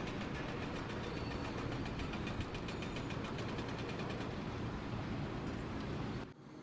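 A machine engine running steadily with a fast, even pulse, cutting off abruptly near the end.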